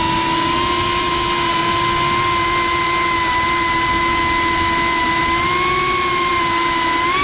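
Cinewhoop FPV drone's ducted motors and propellers whining steadily, heard up close from the camera carried on the drone. The pitch wavers slightly with throttle and swells upward briefly near the end.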